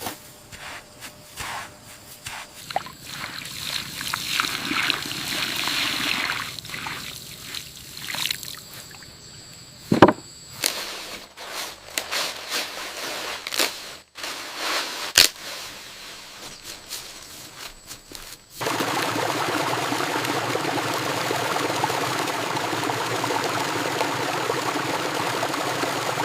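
Water trickling and pouring with scattered clicks and two sharp knocks, then, about eighteen seconds in, a steady rush of flowing water starts suddenly.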